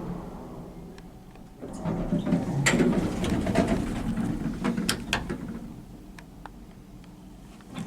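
Passenger lift machinery: a low mechanical rumble with a string of sharp clicks and clunks, louder from about one and a half seconds in and dying down after about five seconds.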